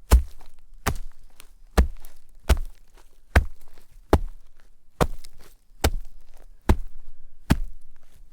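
Footsteps walking at a steady pace through shallow snow, each step a crunch that fades quickly, about one step every 0.8 seconds.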